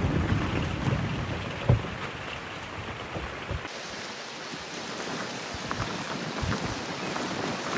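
Steady rain falling, a dense hiss dotted with individual drops ticking. In the first half a low rumble runs under it, which drops away abruptly about halfway through, leaving the rain hiss and drop ticks.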